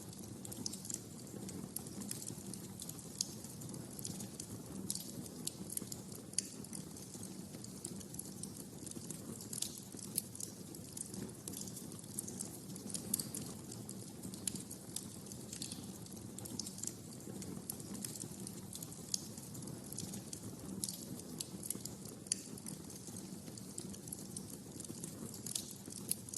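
Wood fire crackling in a fireplace: frequent irregular sharp pops and snaps over a steady low rush of burning.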